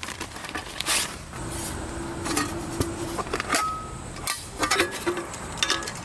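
A series of light clicks, knocks and clatter from camping gear being handled.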